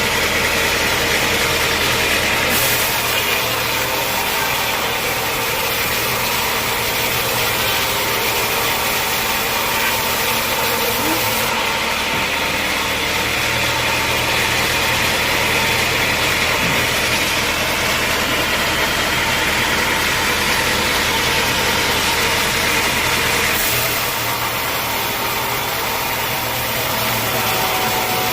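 Sawmill machinery running steadily with a loud, even hum and hiss. The hiss changes abruptly a few times, about two seconds in, midway and near the end.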